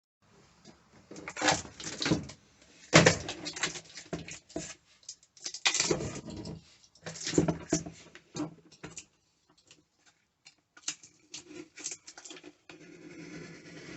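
Irregular knocks, taps and clatter of things being handled, with a few louder knocks in the first half and sparser taps and rustling later.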